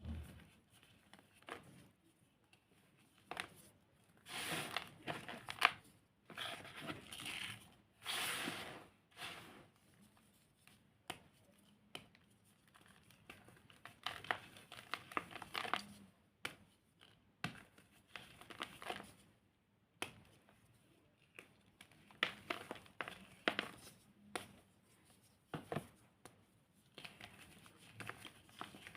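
Dried, reformed cornstarch chunks being squeezed and crushed by hand: irregular bursts of crisp crunching and crumbling, with sharp snaps here and there.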